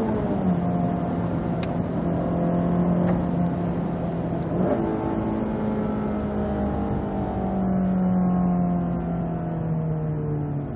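Honda Civic Si's four-cylinder engine heard from inside the cabin of the manual car. Its note steps down as a gear change completes about half a second in, holds steady, jumps briefly near the middle, then falls slowly as the car slows.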